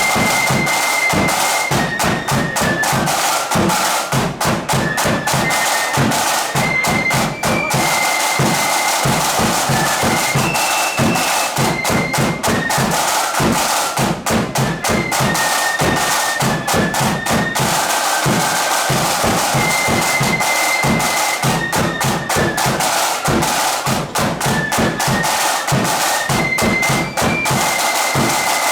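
Marching flute band playing a tune: flutes in unison carrying a single high melody line over rattling snare drum strokes and rolls, with a bass drum beneath.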